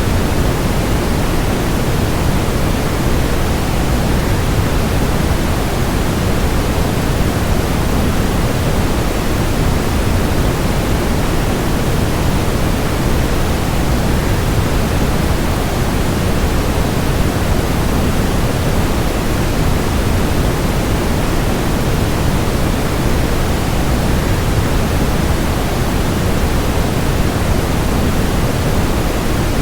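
Steady, even rushing noise of a waterfall blended with white noise, deepest in the low end, with no changes or separate events.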